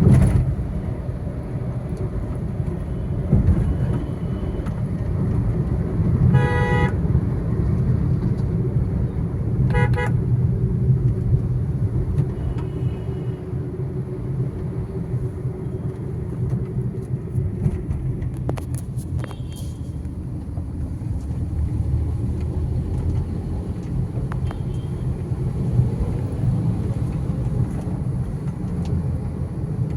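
Road traffic with a steady low rumble of engines and tyres. A vehicle horn honks briefly twice, a few seconds apart.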